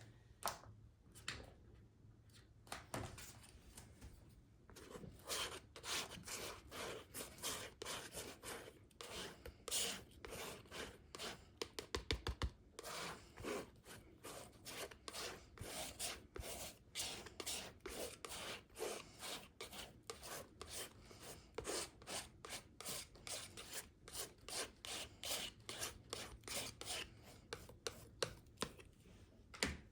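Painting tools scraping and rubbing acrylic paint across textured watercolour paper, in repeated short strokes. The strokes are sparse at first and come thick and fast from about five seconds in.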